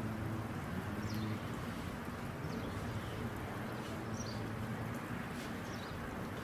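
Several brief, faint, high bird chirps scattered over a steady low hum.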